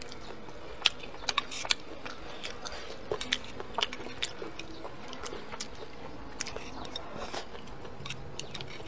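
A person chewing food with crisp crunching and mouth clicks, irregular and several a second.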